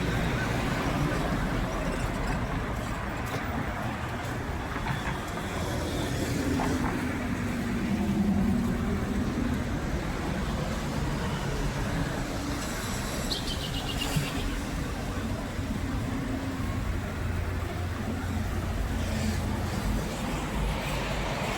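Vehicle noise: a steady low rumble, with a droning engine note that rises and falls about six to ten seconds in.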